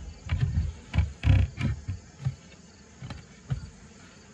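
A run of irregular wooden knocks and bumps as a horizontal bee hive's covers and parts are set back in place while the hive is closed up.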